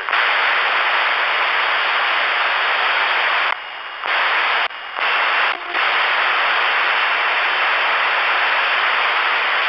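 Radio receiver hiss: loud, even static heard through the radio's speaker between transmissions, dropping briefly quieter three times, about three and a half, four and three quarters, and five and a half seconds in.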